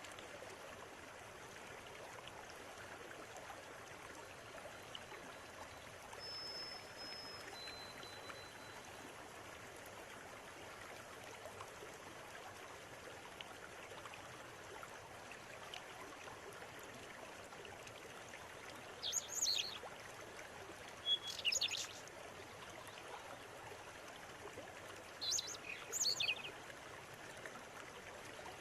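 River water running steadily, with a bird giving short, loud, high chirping calls in three bouts in the second half. Two faint held whistled notes sound in the first third.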